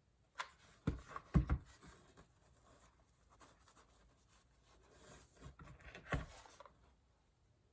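Hands working craft materials on a table: rubbing and scratching as rope is pressed and wound onto a foam form, with a few soft knocks around a second in and one more about six seconds in.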